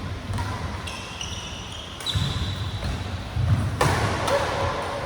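Badminton players moving on an indoor court: shoes squeak sharply on the floor and footsteps thud repeatedly, with a sudden loud crack about four seconds in.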